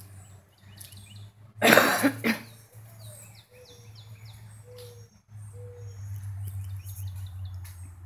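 Songbirds chirping in short high falling notes, with three short low notes in the middle and a steady low hum underneath. A loud burst of noise about two seconds in stands above everything else.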